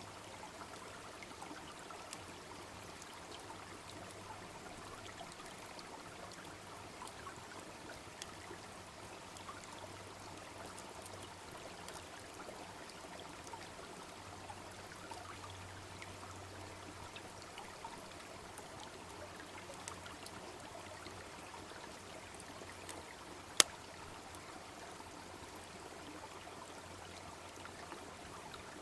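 Wood campfire crackling with small scattered pops over the steady babbling of a shallow brook. A single much louder, sharp pop stands out late on.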